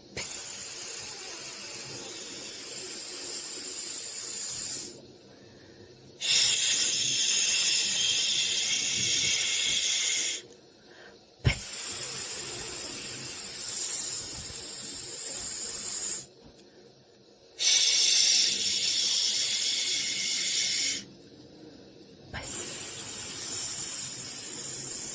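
Repeated long 'shhh' hissing sounds, about four seconds each with short pauses between, five in a row: a white-noise shushing track for soothing babies to sleep.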